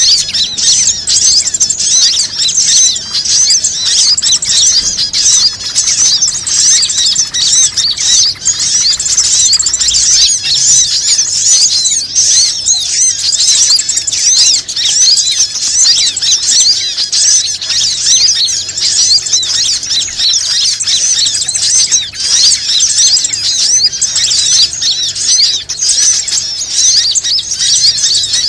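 Bird-lure recording (suara pikat): dense, continuous high-pitched chirping and twittering of small birds, calls overlapping without a break, played to draw wild birds in.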